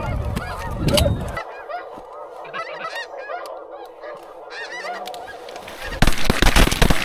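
A flock of geese honking, many overlapping calls at once. A loud rushing noise starts about six seconds in and covers them, and a low rumble sits under the first second or so.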